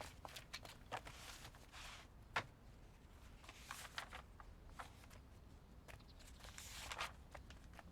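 Faint, scattered footsteps with soft rustling of clothing, quiet taps and swishes over low room tone.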